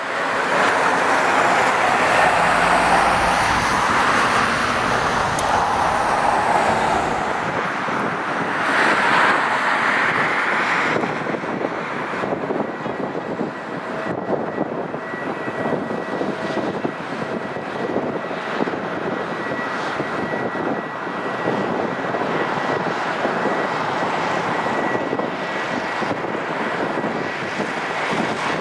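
Boeing 747-200F's Rolls-Royce RB211 jet engines running, a loud rushing roar that eases after about ten seconds into a steadier noise with a thin high whine.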